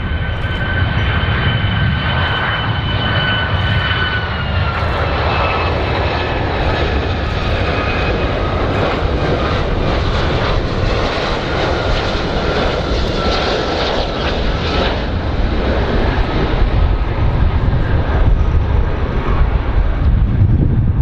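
Airplane engines running loud, a steady rushing noise with a high whine that drops a little in pitch about four seconds in.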